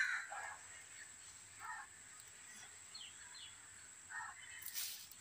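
Faint, scattered short bird chirps, a few separate calls, some falling in pitch, over a quiet background.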